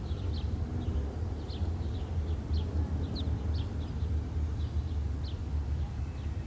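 Motorbike engines rumbling low and steadily, with small birds chirping in short calls over the top.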